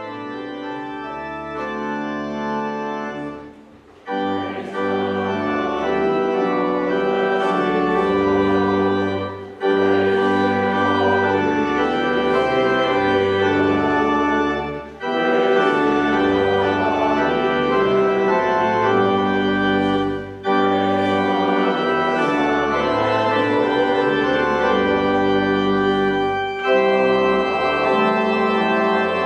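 Organ playing sustained chords over a moving bass line, in phrases separated by short breaths about every five to six seconds; it begins softly and comes in fully after about four seconds.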